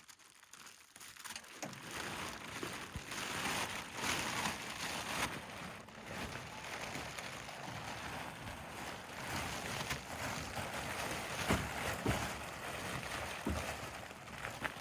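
Irregular rustling of sleeping-bag and tarp fabric as someone settles into a bedroll, with a few soft thumps.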